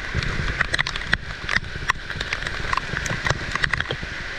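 Heavy rain falling: a steady rush with many irregular sharp taps of drops striking close by.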